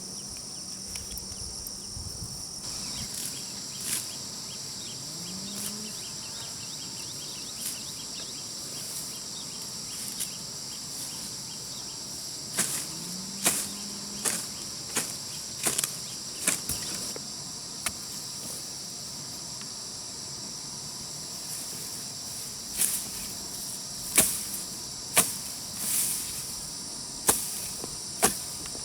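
Steady high-pitched chorus of crickets or cicadas, with irregular sharp knocks that come in clusters in the middle and again near the end.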